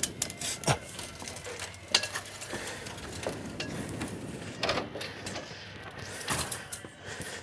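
Scattered metallic clinks and knocks of catamaran rigging hardware being handled as a mast is unpinned and lowered: a handful of sharp, separate hits.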